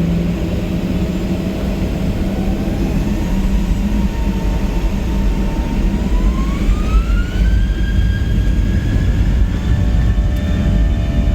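Boeing 737-700's CFM56-7B jet engines spooling up to takeoff thrust, heard inside the cabin: a deep rumble with an engine whine that rises in pitch from about four to eight seconds in, then holds steady at full power.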